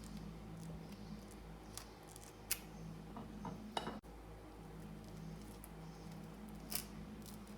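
Objects being handled by hand: a few light clicks and clinks, the clearest about two and a half, four and seven seconds in, over a steady low hum.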